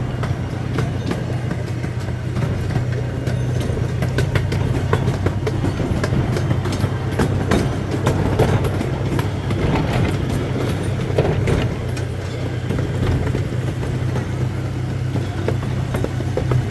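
Small amusement-park train running, heard from on board: a steady low hum with irregular clicks and rattles from the cars and the track.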